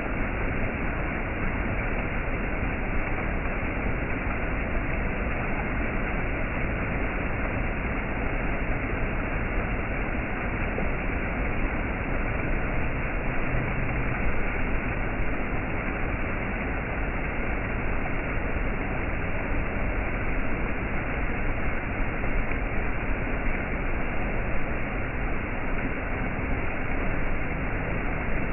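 Waterfall rushing steadily, a constant even roar of falling water with no breaks or changes.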